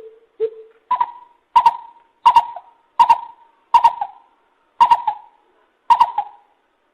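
Lesser coucal calling: two low hollow hoots, then a series of seven higher, louder hoots about one every 0.7 seconds, the last two more widely spaced.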